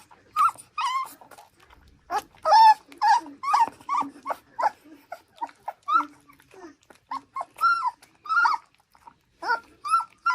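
A dog whining and yipping in a rapid string of short cries whose pitch bends up and down.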